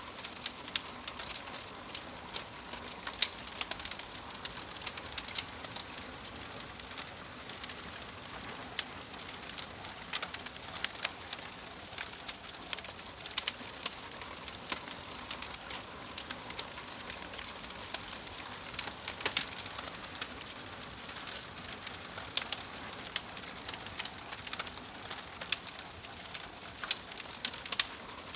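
Wood fire crackling in a fireplace: irregular sharp snaps and pops scattered over a steady soft hiss.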